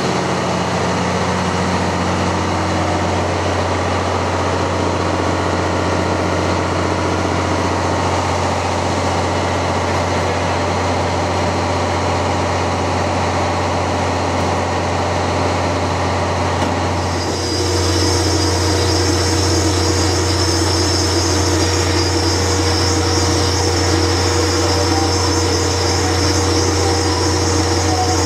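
A train standing at a station with a steady low engine-like hum. About 17 seconds in it grows a little louder and a high hiss joins it.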